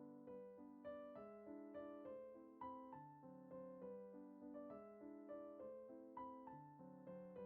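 Soft background piano music: a gentle melody of struck notes, each fading as the next comes in.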